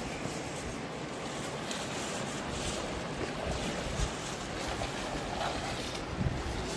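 Fast river water rushing steadily, an even, unbroken noise.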